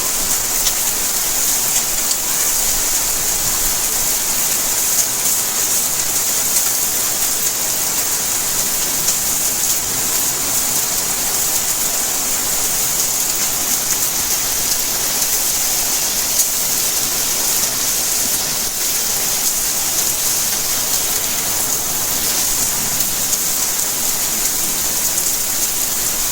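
Steady rainfall: an even hiss of rain with many small drops pattering on surfaces.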